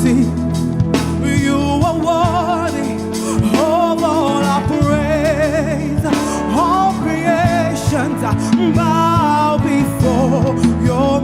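Live gospel worship music: a solo voice singing long, wavering vibrato phrases over sustained instrumental chords.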